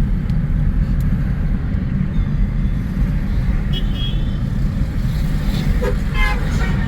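Steady low rumble of a car driving, heard from inside the cabin: engine and road noise. A brief faint voice comes through near the end.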